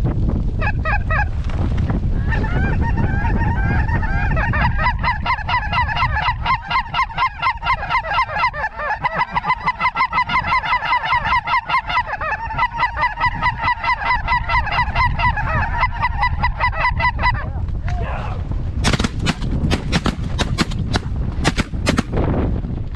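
A flock of geese honking and calling densely over steady wind rumble on the microphone. Near the end comes a rapid string of sharp shotgun shots.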